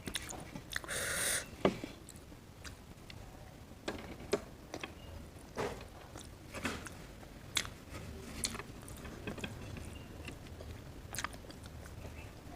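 Close-miked eating: a person chewing and biting into roti and creamy paneer, with scattered soft clicks and taps and a brief rustle about a second in.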